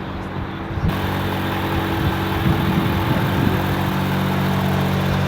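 Car engine idling steadily, with a band of hiss coming in about a second in.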